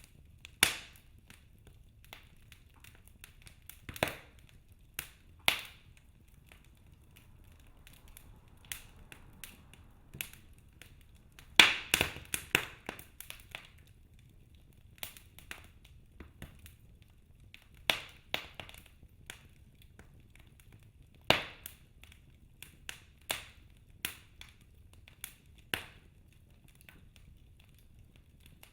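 Wood fire crackling in a fireplace: irregular sharp pops and snaps from burning logs, with a burst of louder crackles about twelve seconds in.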